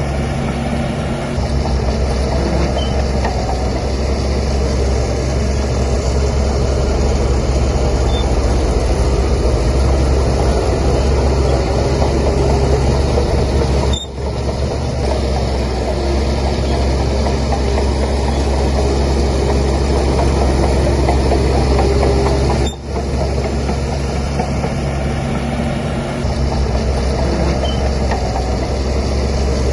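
Heavy diesel engine of a bulldozer running steadily. The sound is loud and unbroken except for two brief dips, about halfway through and again some eight seconds later.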